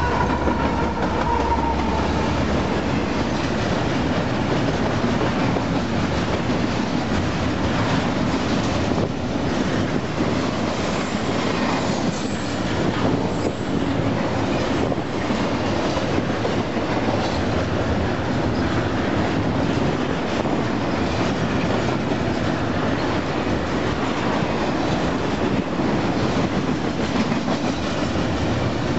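A Union Pacific diesel freight train passing close by. In the first two seconds the locomotives' horn chord trails off, falling in pitch as they go by. Then comes the steady rolling rumble and rhythmic clickety-clack of double-stack container well cars over the rail joints.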